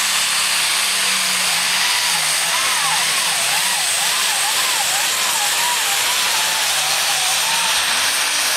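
Pulling tractor's engine running flat out during a pull, loud and unbroken, its pitch wavering up and down as it works against the load, with a high whistle over the top.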